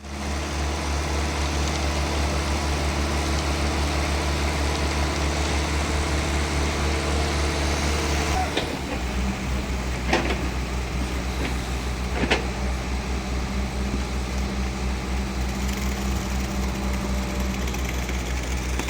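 Diesel engine of a CARMIX 23FX self-loading concrete mixer running steadily. Its note changes about eight and a half seconds in, and two sharp knocks come a couple of seconds apart after that.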